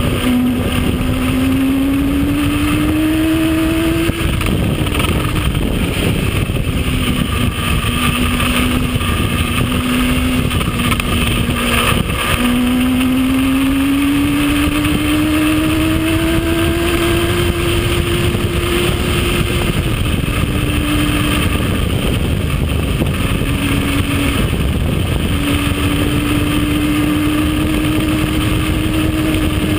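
Sportbike inline-four engine heard from the rider's seat at speed, its note climbing under throttle and dropping back at each upshift several times, under heavy wind rush on the microphone.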